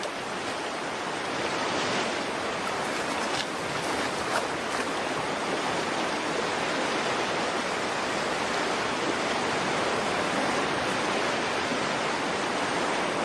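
Water of a salmon stream flowing steadily, an even hiss of running water.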